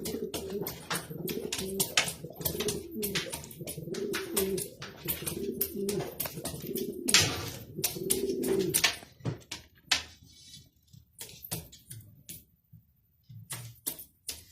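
Domestic pigeons cooing in repeated low phrases, mixed with many sharp taps and clicks. The cooing stops about nine seconds in, leaving only scattered clicks before it picks up again near the end.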